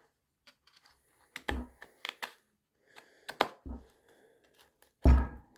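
Irregular clicks and knocks of a serrated knife working a hard plastic car-radio case as the slot is cut wider, about half a dozen in all, the loudest a dull knock near the end.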